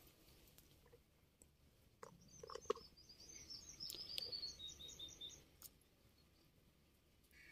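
A small bird sings a quick run of short, high notes that steps downward, for about three seconds from about two seconds in. Under it come faint slurps and clicks of a calf drinking water from a metal bucket.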